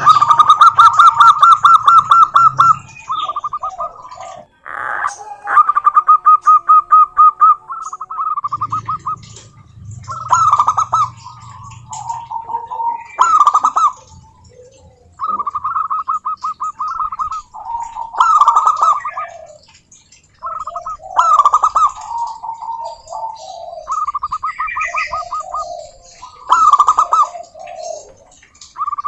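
Zebra doves singing: repeated phrases of fast, rattling staccato coos, with lower falling coos between them, more than one bird answering back and forth.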